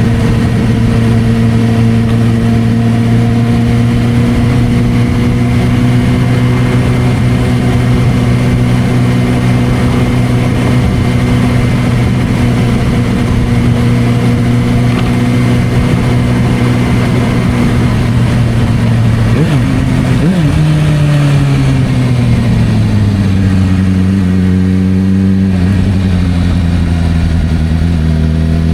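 Suzuki GSR600's inline-four engine through a Dominator aftermarket exhaust, running at a steady engine speed while riding. About two-thirds of the way through, the note drops and falls away as the bike slows, then holds low and starts to rise again near the end.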